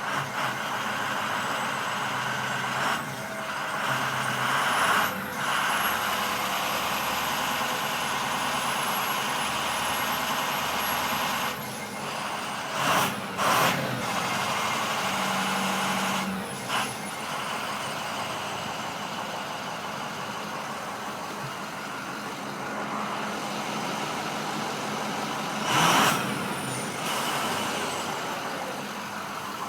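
International VT365 6.0L V8 turbodiesel idling at a stop, its Garrett variable-geometry turbo whistling in a thin high tone. The whistle rises about five seconds in, holds, and falls away around twelve seconds, with fainter whistles later. Several short loud bursts of noise break in, the loudest near the end.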